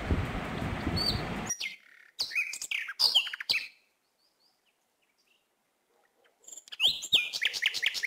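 Small birds chirping in short runs of quick, falling notes, in two spells with about three seconds of dead silence between them. A steady hiss of background noise comes before the first chirps and cuts off after about a second and a half.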